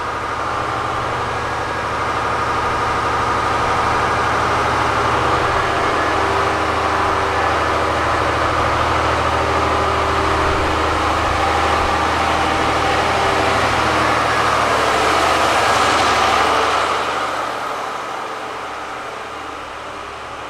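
The Shiki-shima luxury train pulling out slowly: a steady low engine drone with thin whining tones above it. A hiss swells about sixteen seconds in as the cars pass close, then the sound falls away near the end.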